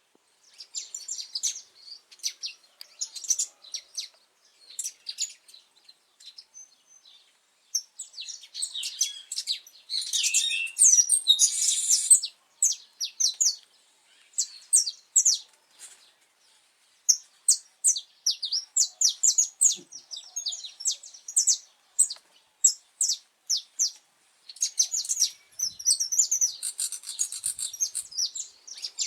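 Saffron finch singing: phrases of quick, high chirps and short trills separated by brief pauses, densest a little after ten seconds in and again near the end.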